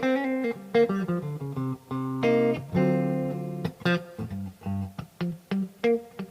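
Made-in-Japan Yamaha STH 500R guitar played in a clean tone: a phrase of picked single notes and short chords, each plucked and left to ring briefly.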